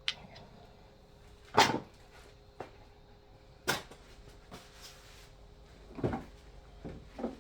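A handful of sharp, separate knocks and clacks, the loudest about a second and a half in, from hand tools and engine parts being handled and set down during engine assembly.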